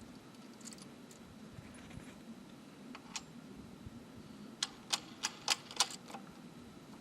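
Small metal hardware clicking and tapping as a bolt, washers and nut are fitted to the cultivator's handle bracket, with a quick run of five sharp clicks about five seconds in.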